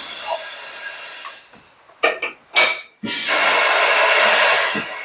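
Compressed air hissing: a blast that fades near the start, two or three short bursts about two seconds in, then a long steady hiss that stops near the end.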